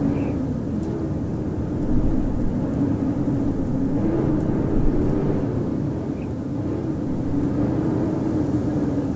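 Blizzard wind howling steadily over a deep rumble, its low whistling note wavering up and down.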